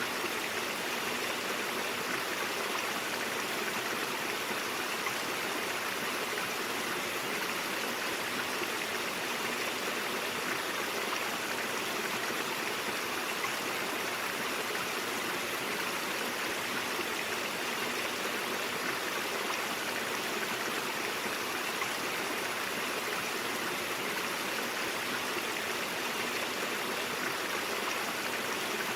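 Stream water flowing and burbling over rocks, a steady, even rush with no change.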